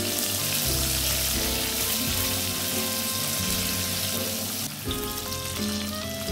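Shallots, garlic and green chilies sizzling in hot oil in a frying pan as they are stirred with a spatula, being sautéed until they wilt. The sizzle eases a little about three-quarters of the way through.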